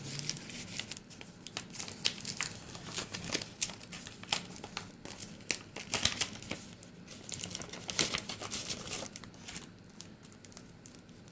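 Paper or plastic packaging being torn open and crinkled by hand, with irregular crackles and rustles that thin out near the end.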